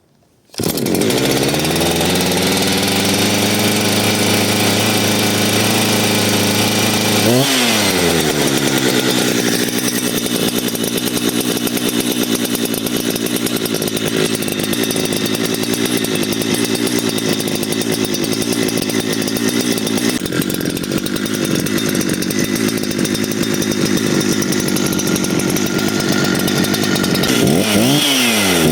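Husqvarna 372XP-clone chainsaw's two-stroke engine starts abruptly about half a second in, its pitch settling lower over several seconds. The throttle is blipped once, up and back down, and the engine then idles steadily. Near the end the throttle is blipped again.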